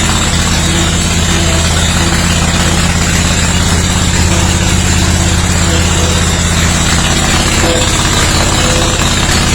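Kohler Command 25 V-twin engine of a Steiner zero-turn mower running steadily at a constant speed.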